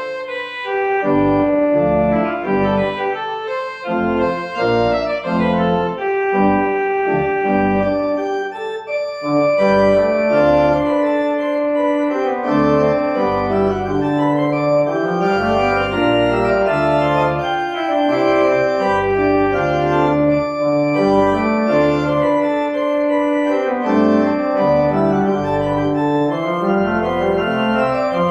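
Organ playing a closing voluntary after the dismissal: full held chords over a deep pedal bass, moving quickly for the first several seconds, then settling into longer sustained chords.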